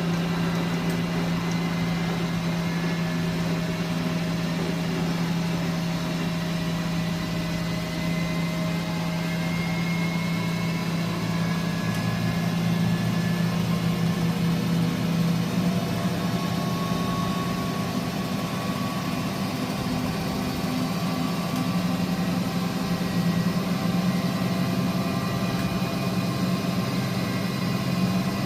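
Miele W423 washing machine running, a steady mechanical hum whose pitch and level shift about twelve seconds in.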